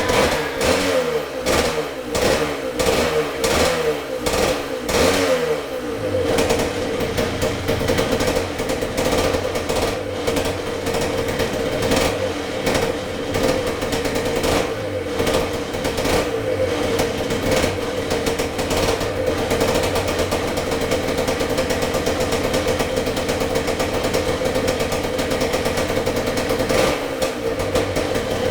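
1978 Yamaha DT175MX two-stroke single-cylinder engine running on its first start after a full rebuild with new piston, rings, crank bearings and seals. The throttle is blipped about once a second for the first six seconds, then the engine runs steadily, with one more rev near the end.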